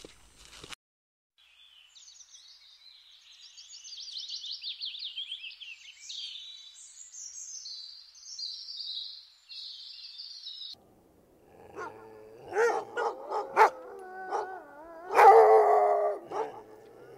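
Birds chirping and trilling in high, quick phrases for most of the first ten seconds. From about eleven seconds a Shiba Inu whines and gives short barks, loudest about fifteen seconds in.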